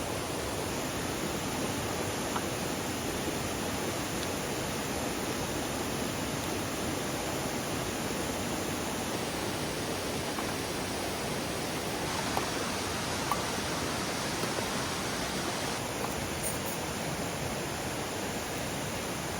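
Mountain valley stream rushing steadily over rocks, with a few faint ticks over the water.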